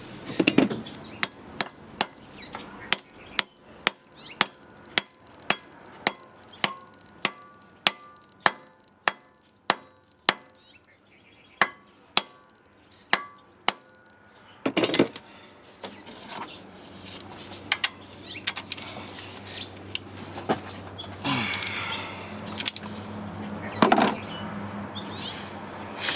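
Hammer blows on metal, about two a second for some fourteen seconds with a faint ring, working a tool onto a stripped cylinder head bolt. After that come a few scattered, louder knocks and tool clatter.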